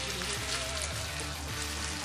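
Chopped bacon and sausage frying in hot oil in a non-stick wok as they are stirred, a steady sizzling hiss.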